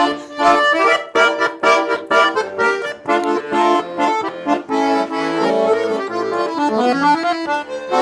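Garmon (Russian button accordion) playing a quick instrumental break on its own, a lively melody of short notes over chords.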